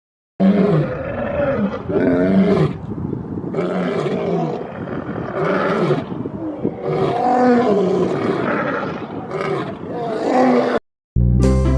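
Lion roaring in a long series of calls, one every second or so, for about ten seconds; then background music starts near the end.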